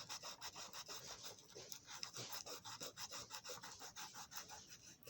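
Sandpaper rubbed by hand on small metal parts of a Marx toy train motor to shine off dirt and oily gunk. Faint, quick scratchy strokes, several a second.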